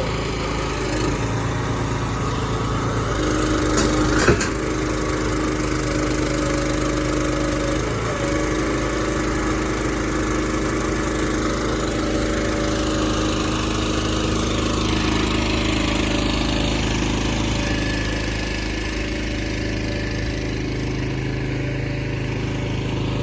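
Pack Rat container truck's engine running steadily while its lift machinery works the moving pod, with a steady hum and tones that shift in pitch. A sharp clank about four seconds in.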